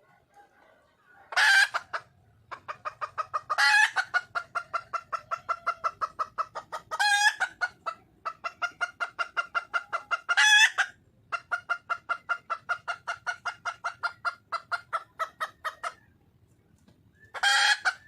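Red junglefowl hen calling for a mate: a long run of rapid clucks, about five a second, broken by five loud, harsh calls, the last one near the end.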